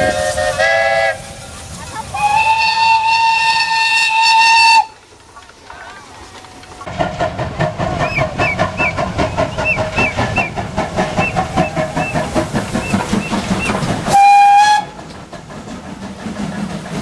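Steam locomotive whistling: a short blast, then a long steady blast of about three seconds. After a quiet gap it runs past with a fast, even chuffing and a regular squeak, and ends with another short whistle blast.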